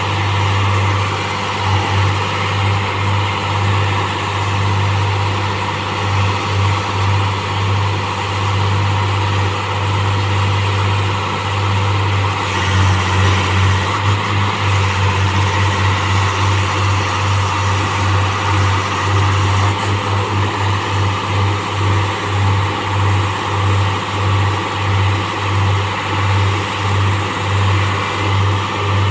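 Heavy engine of a railway track-changing machine running steadily, its loudness pulsing about once a second in the later part.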